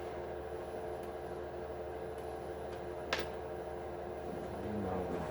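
A steady low hum with a single sharp click about three seconds in, typical of a hand tool or small metal part knocking during hand disassembly of an RC truck. Some scraping noise rises near the end.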